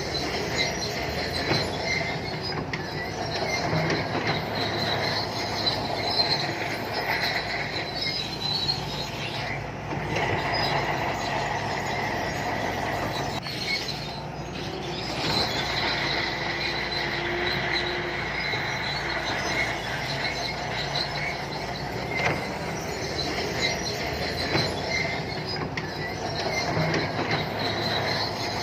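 Shantui crawler bulldozer at work: the diesel engine runs under load while the steel tracks squeal steadily, with a high screech that swells and fades.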